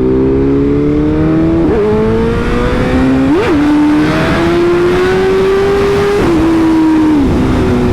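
BMW S1000RR inline-four sport-bike engine under way, its pitch climbing slowly as the bike gains speed, with three quick up-and-down blips, then dropping in steps near the end as it slows, over a steady rush of wind noise.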